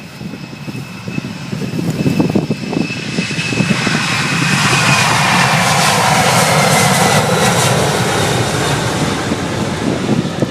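Jet airliner passing, its engine noise swelling to a loud rush and easing off again, with a high whine that slides slowly down in pitch. Gusty wind buffets the microphone underneath.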